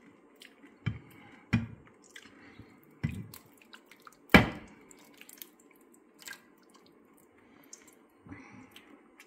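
Sauce being spooned onto pieces of chicken: a few soft wet plops and drips, with a sharp knock, likely the spoon against the pan, about four and a half seconds in, the loudest sound.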